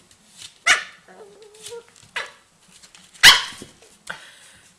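A puppy barking three times at a lemon on the floor, with short, sharp yaps about a second and a half apart; the last is the loudest.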